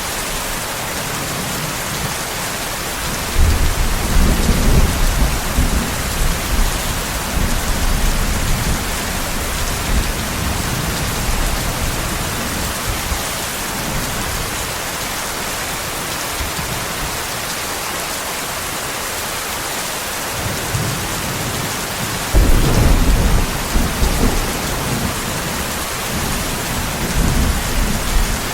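Steady heavy rain, with two long rolls of thunder: one starting about three seconds in and rumbling for several seconds, another starting a few seconds before the end.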